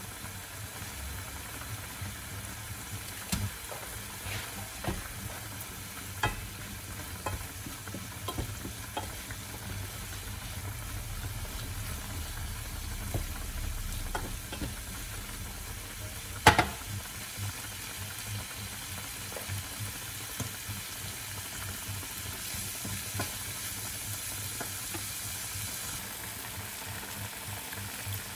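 Food frying and sizzling in a pan, with a utensil knocking and scraping against the pan as it is stirred; one knock about halfway through is much louder than the rest.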